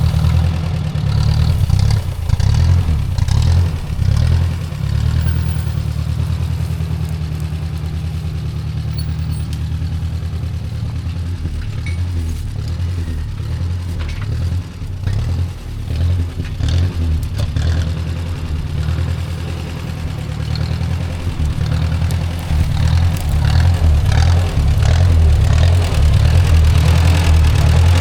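Ford Jubilee tractor's four-cylinder engine running steadily while plowing, fading somewhat through the middle and growing louder again in the last few seconds.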